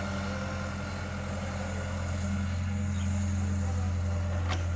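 Tractor engine idling steadily with a low, even hum, and a single sharp click near the end.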